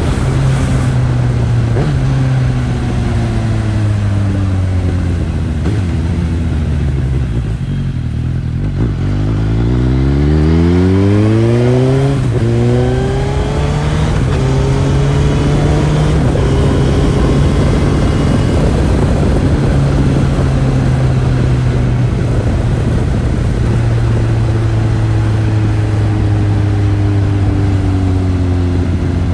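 Suzuki GSX-S1000's inline-four on its stock exhaust, riding: the engine note falls as the bike slows for about eight seconds, then climbs steeply under hard acceleration with a couple of short breaks as it shifts up. After that it settles into a steady cruise, the pitch slowly dropping.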